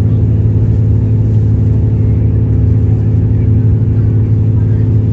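Steady low drone of a diesel railcar's engine, heard from inside the passenger car.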